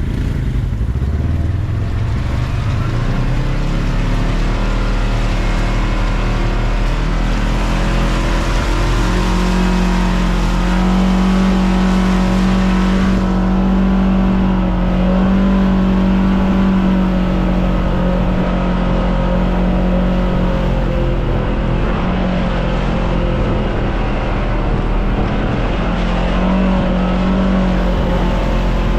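Off-road vehicle engine running steadily under way, a continuous drone that holds an even pitch for most of the time, over a steady hiss.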